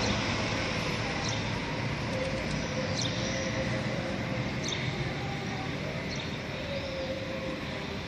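Propeller engine of a light aerobatic plane droning in the distance and slowly fading. A few short, high bird chirps come through it.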